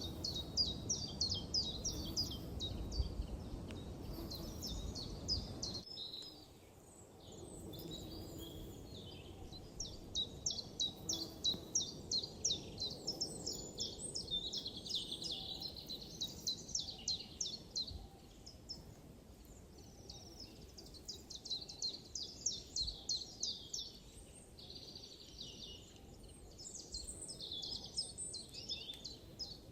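Forest birdsong: several small birds singing rapid series of high chirps and trills, in runs of a few seconds one after another. A low background rumble is heard under them for the first six seconds, then cuts off suddenly.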